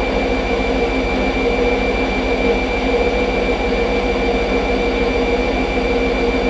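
Hoover Nextra HNL662 washing machine running steadily in its spin, the drum turning fast with a steady high motor whine over a low rumble.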